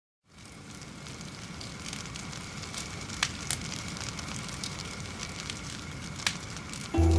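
A steady hiss with a few sharp crackles and pops scattered through it. Music comes in loudly near the end.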